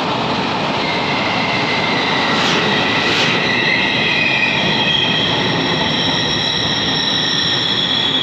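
Taiwan Railway train rolling through the station, with the steady noise of wheels on track and a high wheel squeal of several steady tones coming in about a second in.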